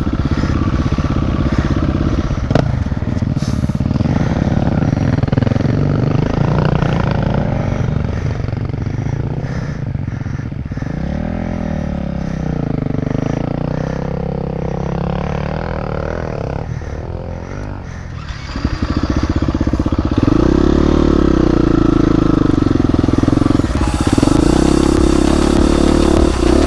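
Dirt bike engine revving up and dropping off over and over as it is ridden up a rocky single-track climb. It runs louder and steadier from about two-thirds of the way through.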